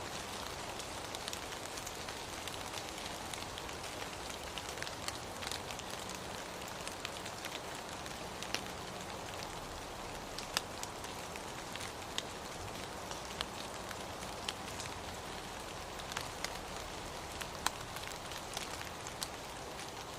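Steady rain falling, an even hiss with many scattered sharp drop ticks and patters on a surface.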